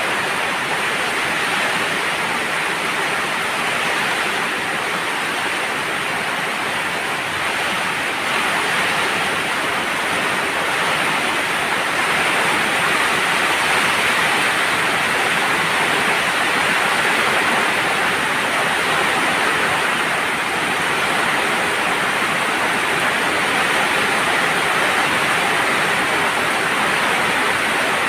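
Heavy rain pouring down, a dense steady hiss that swells a little about a third of the way in.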